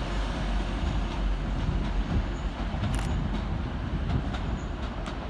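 Class 185 diesel multiple units moving through the station with a steady low rumble, with a few sharp clicks of wheels over rail joints.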